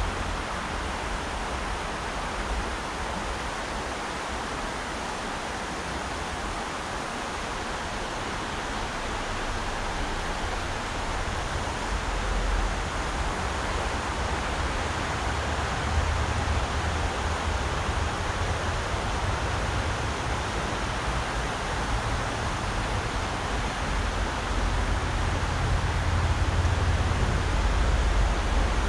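Rushing river water: a steady, even rush. A low rumble builds up underneath it about a third of the way in and grows stronger toward the end.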